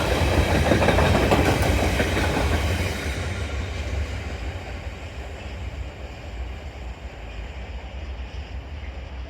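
Freight train hauled by a Class 66 diesel passing, its wagons rattling over the rail joints in a clickety-clack, then fading away after about three seconds as the train moves off.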